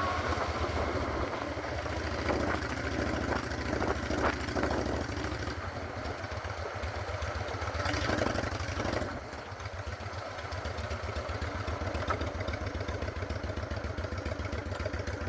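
Honda Shadow 600 V-twin chopper engine running with a rhythmic low exhaust beat. It eases to a lower, steadier beat about nine seconds in.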